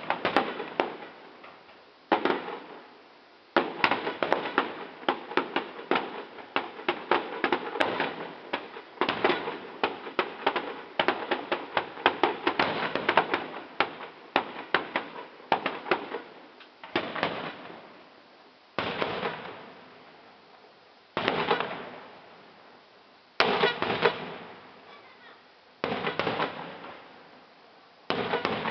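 Aerial firework shells bursting, each a sharp bang followed by crackling that fades. The bursts come in a dense, rapid run for the first half, then singly about every two seconds.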